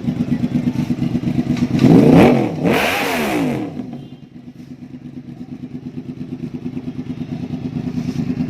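Yamaha R1's 1000cc inline-four engine idling with a steady pulse, blipped twice about two seconds in, each rev rising and falling quickly, then settling back to idle.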